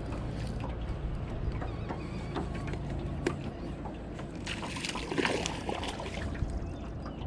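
Water sloshing and splashing around a small aluminum jon boat, with a louder burst of splashing about five seconds in. A low steady hum underneath stops about three and a half seconds in.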